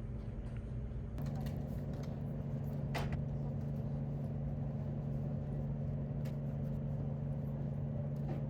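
A steady low mechanical hum that steps up slightly about a second in, with a few faint clicks.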